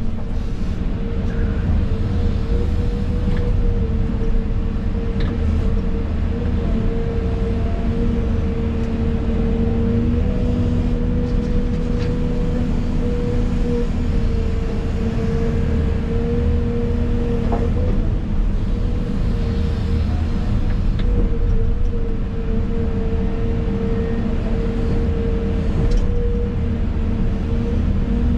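Excavator's diesel engine running steadily under work, heard from inside the cab, with a constant high hum over the low rumble and a few faint clicks and knocks.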